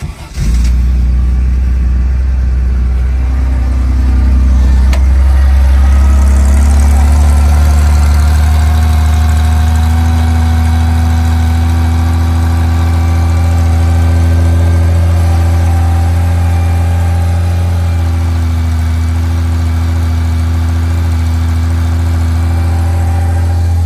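Porsche 911T's air-cooled flat-six engine started from cold: it fires and catches at once, then runs at a steady idle.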